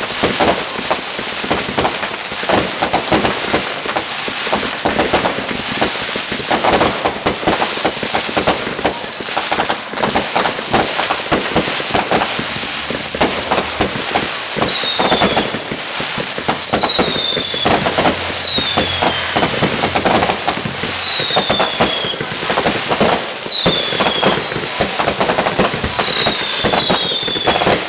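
Fireworks going off in a dense, continuous crackle and pop, with short falling whistles recurring again and again.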